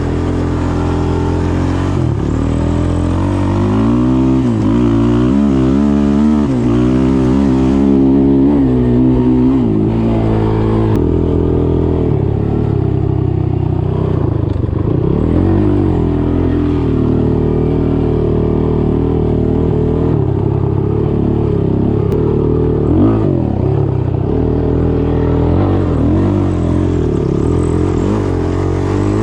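Single-cylinder off-road engine running under load, its pitch rising and falling again and again as the throttle is worked and gears change over rough ground.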